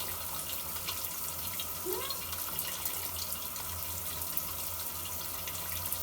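Running shower water, a steady rush with small spattering ticks as it falls on a bathing parrot.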